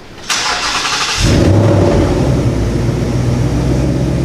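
2018 Ford Mustang's 5.0-litre V8 started by remote start: a short rush of starter noise about a third of a second in, then the engine catches about a second in with a loud flare and settles into a steady idle.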